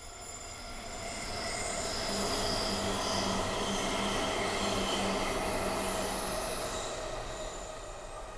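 Electric commuter train running on the rails: rolling and wheel noise swells to its loudest about halfway through, then eases off, with several steady high tones over the rush.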